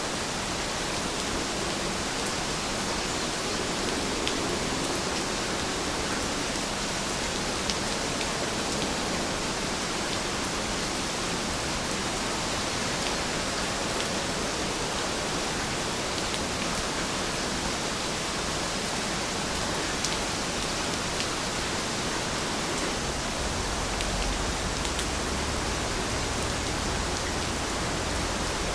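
Heavy rain falling steadily, an even hiss with scattered sharper drop ticks. A faint low rumble comes in near the end.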